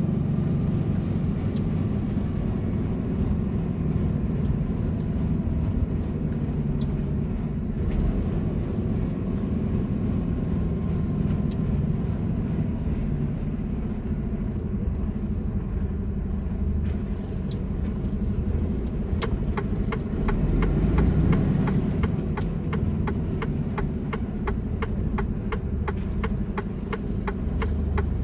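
Mercedes-Benz Actros truck driving at motorway speed: a steady low rumble of diesel engine and tyres. About two-thirds of the way through, an even ticking starts, about two to three ticks a second.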